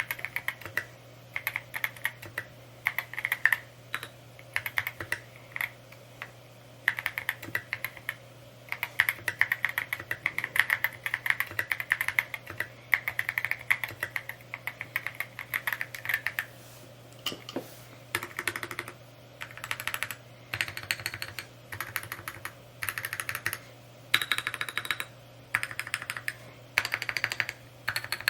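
Typing on a Mode Encore 2 mechanical keyboard: fast runs of keystrokes in bursts of a few seconds, broken by short pauses between words and phrases. A faint steady hum sits underneath.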